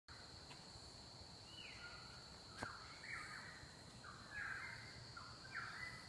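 Faint outdoor birdsong: a bird gives a string of short, stepped calls, several a second apart, over a steady high-pitched insect drone.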